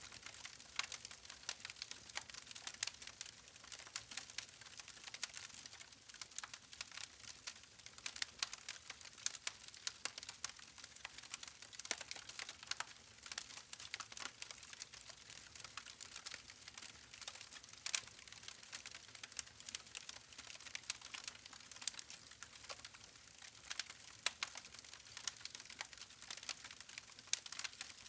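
Wood fire burning with irregular sharp crackles and pops from the logs over a soft hiss.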